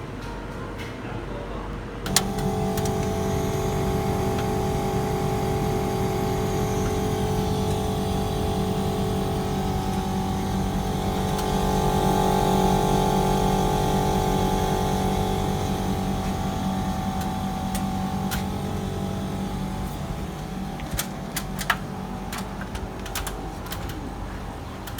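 A motor starts abruptly with a click about two seconds in and runs with a steady, even-pitched hum made of several tones. It grows louder toward the middle and fades somewhat after about eighteen seconds, with a few light clicks near the end.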